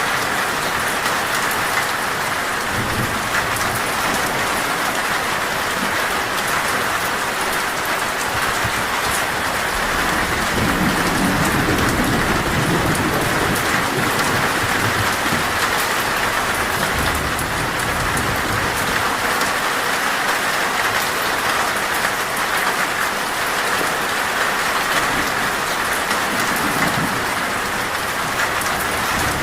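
Heavy rain falling steadily on a metal roof. A low rumble of thunder swells about ten seconds in and fades a few seconds later.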